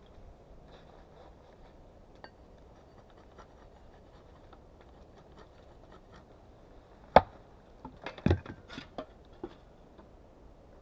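Wood being worked by hand: faint scraping and rustling, then one sharp wooden knock about seven seconds in, followed by a quick clatter of smaller knocks.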